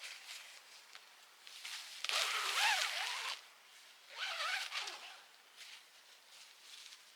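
A zipper being pulled in two long strokes, the first about two seconds in and the second shorter one about four seconds in, each with a rasping sound that rises and falls in pitch. Faint rustling comes between them.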